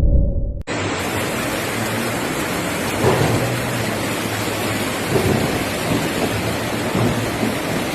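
A low rumble cuts off under a second in, giving way to a steady, loud rush of water in a heavy storm, with a few low swells in it.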